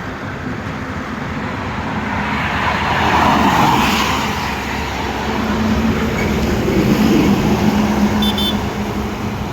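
Highway traffic: a vehicle passes close by, its tyre and engine noise swelling to a peak about three seconds in and then fading. It is followed by the steady low engine hum of another vehicle going past.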